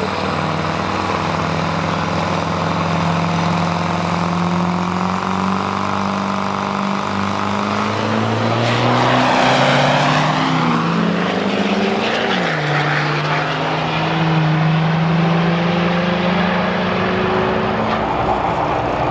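Turbo-diesel trucks' engines running hard, with a high turbo whistle that climbs slowly. The sound swells loudest about nine seconds in, and the engine note drops around twelve seconds.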